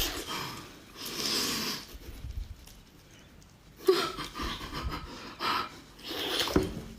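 A person eating tough, chewy food close to the microphone: heavy breaths through the nose and mouth between bites, with chewing and tearing. There are several separate breathy bursts, the longest about a second in.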